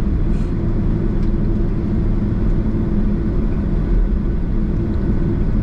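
Steady low drone inside the cabin of a Boeing 767: the idling jet engines and cabin air as the airliner taxis after landing.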